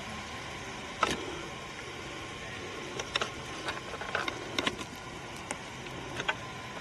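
Footsteps on a woodland trail: irregular sharp snaps and crunches, the loudest about a second in, over a steady background hiss.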